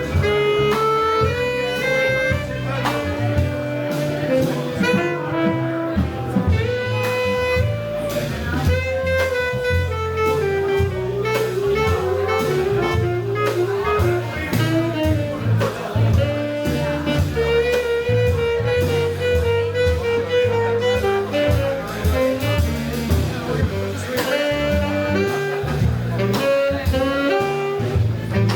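Live jazz combo playing, a horn carrying a stepping melody over changing bass notes and steady drum and cymbal strokes.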